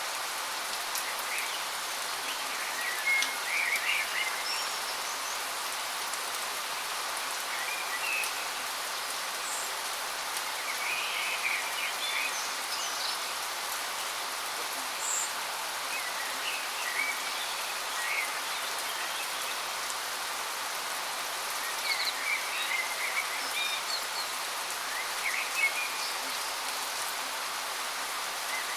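Steady rushing hiss of a waterfall, with small birds chirping in short bursts every few seconds over it.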